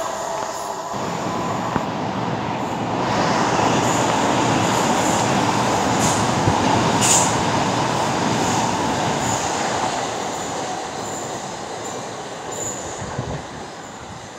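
Electric multiple-unit train running past on the rails, a dense rumble of wheels and running gear that grows loud about three seconds in and fades as the train draws away over the last few seconds.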